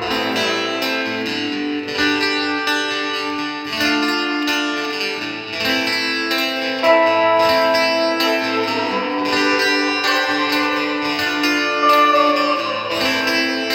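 Instrumental intro of a rock song, led by guitar playing plucked notes in a steady rhythm over a low bass line, with a note that slides down in pitch near the end.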